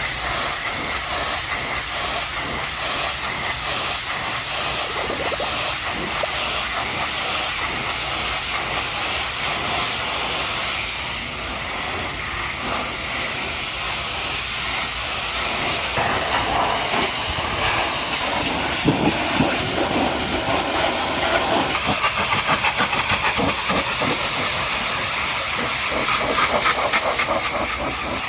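High-pressure washer jet spraying water onto a truck, a steady loud hiss. About halfway through the spray gets rougher and spatters unevenly.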